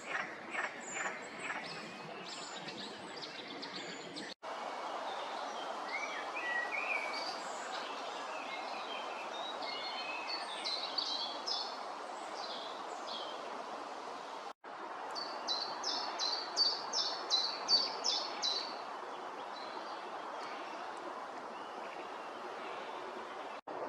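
Wild birds singing and calling over a steady outdoor hiss. First comes a run of evenly spaced calls, then varied high chirping phrases, then a fast, even trill. The sound drops out briefly twice between these passages.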